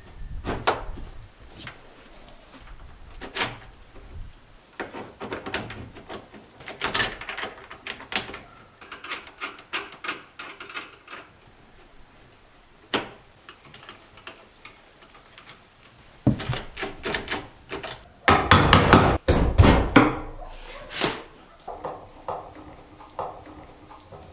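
Irregular wooden knocks and taps with some scraping and rubbing, from hand-tool work on wood. A louder, denser run of knocking and rubbing comes about two-thirds of the way through.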